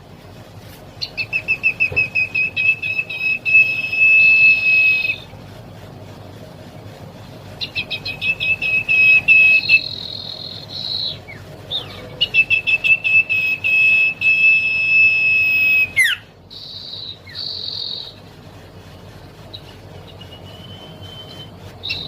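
Young common iora singing: three long phrases, each opening with a quick run of repeated notes and settling into a long held whistle, followed near the end by a few shorter whistled notes.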